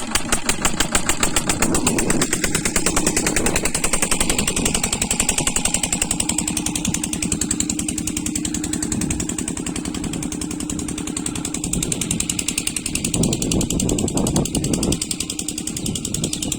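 Stationary diesel oil engine driving an air compressor, running steadily with a fast, even thudding beat and a steady low hum underneath.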